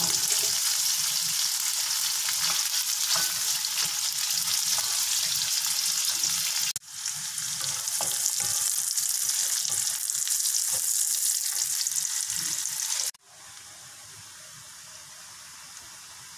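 Food sizzling in hot oil in a metal wok, stirred with a wooden spatula that scrapes and knocks against the pan. The sizzle breaks off sharply about seven seconds in and starts again. It drops to a much quieter hiss about thirteen seconds in.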